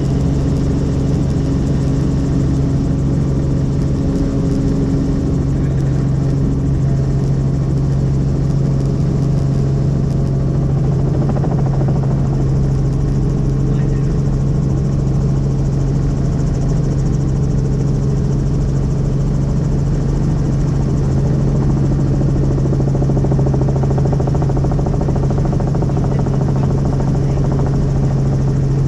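Helicopter in flight: the steady drone of rotor and engine, dominated by an unchanging low hum.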